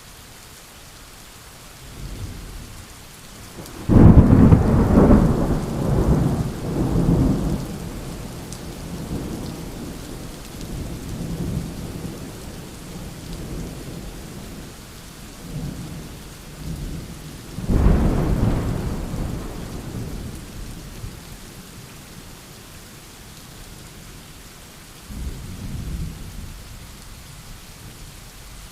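Steady rain with thunder: a faint rumble about two seconds in, then a loud, sudden thunderclap that rolls on for several seconds. A second loud clap comes past the middle and rumbles away, and a fainter rumble follows near the end.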